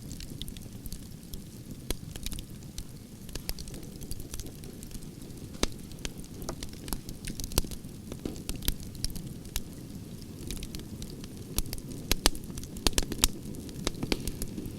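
Wood campfire burning: logs crackling and popping with irregular sharp snaps over a steady low rumble of the flames, the pops coming thicker near the end.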